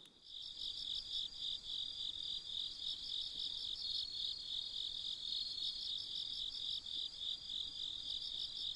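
Crickets chirping: a steady run of high, evenly pulsed chirps that starts just after the narration stops.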